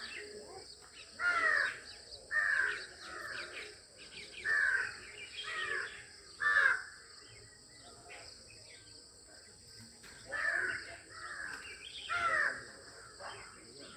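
A bird giving repeated harsh, caw-like calls, each short and falling in pitch, in two bouts of about five calls separated by a pause of about three seconds.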